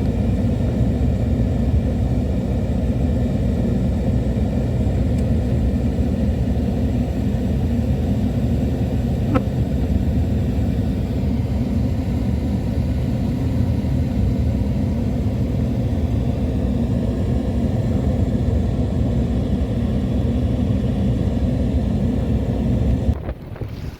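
Car driving, with a steady low rumble of road and engine noise that cuts off sharply about a second before the end.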